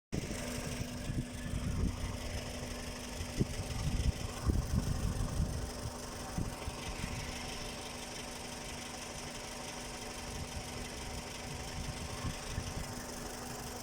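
Toyota 1AZ-FE 2.0-litre four-cylinder engine idling with an irregular low knocking, busiest in the first half, which the owner puts down to the flywheel.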